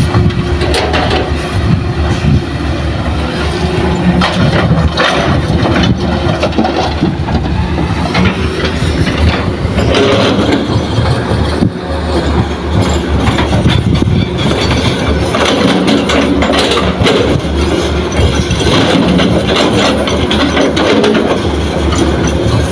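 Heavy diesel engines of a mine excavator and dump truck running steadily, with a few brief knocks.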